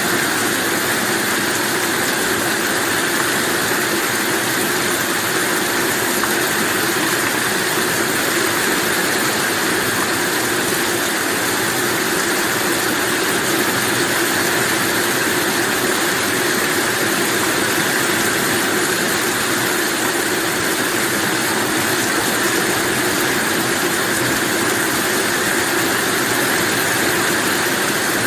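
Steady rain, an even hiss of drops without pause or swell.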